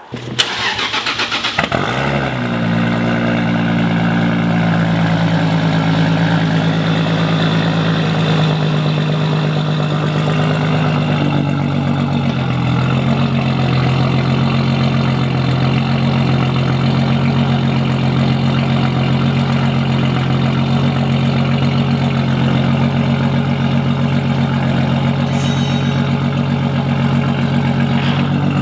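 Car engine cranking and catching, revving up briefly as it starts, then settling into a steady idle.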